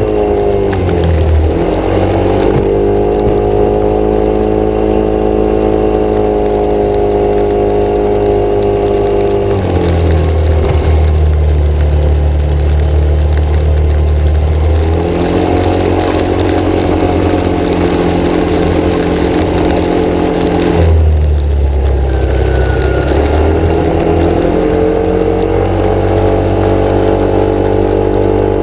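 An engine or motor running steadily and loudly, its pitch settling at a new level every few seconds.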